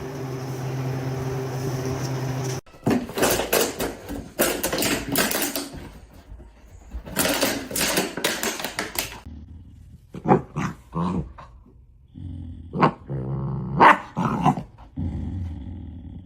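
A dog growling and barking in a run of short bursts. It follows a steady hum that cuts off suddenly about two and a half seconds in.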